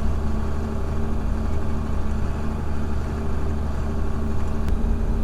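Tractor engine running at a steady speed, a low, even hum.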